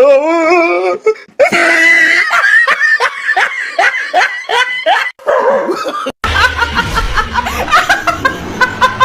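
A person laughing hard in quick repeated bursts. Just after six seconds there is a cut, and a low rumble runs under the laughter from then on.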